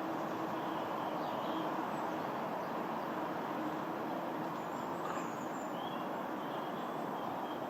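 Steady, distant rushing roar of a jet airliner flying high overhead, with faint bird chirps about five to seven seconds in.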